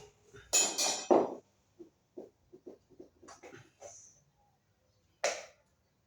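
Hard objects being handled and knocked together: a loud clatter about half a second in, a run of light knocks and clicks, and one more sharp knock near the end.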